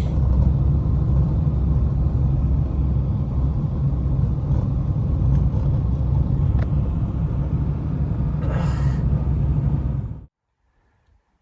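Blizzard wind buffeting the microphone, a steady heavy low rumble that cuts off suddenly about ten seconds in.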